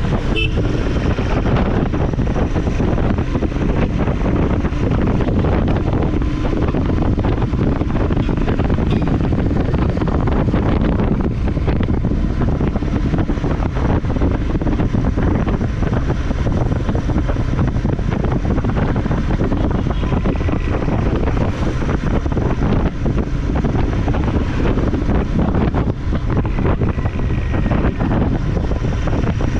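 Motorcycle on the move: the engine running steadily under heavy wind noise buffeting the microphone.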